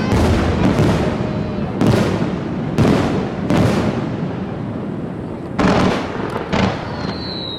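Aerial fireworks shells bursting overhead: about six loud booms, each trailing off in a rolling rumble. Near the end a thin high whistle slowly falls in pitch.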